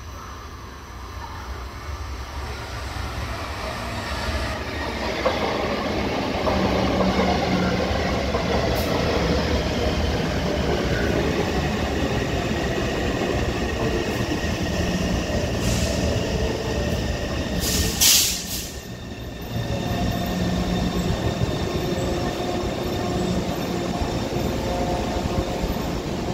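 Taipei Metro C321 electric multiple unit running, with the steady tones of its Siemens GTO-VVVF traction inverter; the sound grows louder over the first several seconds and then holds. A brief sharp hiss about two-thirds of the way through.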